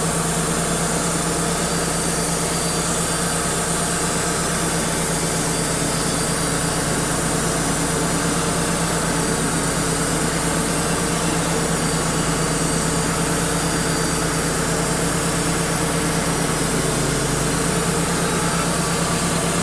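Wood-Mizer LT35 portable band sawmill running steadily, its band blade cutting along an eastern red cedar log with a constant engine hum under a hiss from the cut; the sawing stops abruptly at the end.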